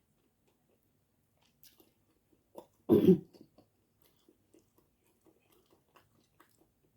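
Quiet chewing and mouth sounds of someone eating, with one loud, short cough about three seconds in.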